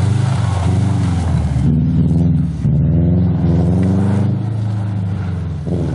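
Subaru flat-four engine revving hard, its pitch rising and falling as the car is thrown sideways through snow-covered turns. The sound changes abruptly about two seconds in as a second run begins.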